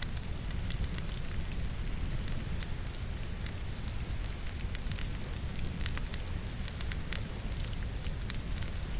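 Logs burning in a fireplace, crackling with frequent sharp pops, mixed with steady rain.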